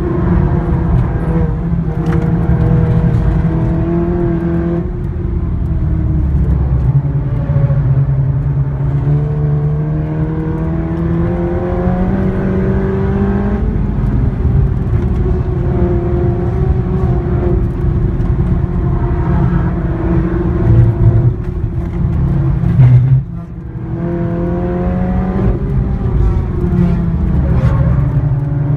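Seat Leon Cupra engine and loud exhaust under hard driving, the pitch climbing through the revs and dropping back at each gear change. About 23 seconds in it briefly goes quiet on a lift-off before picking up again.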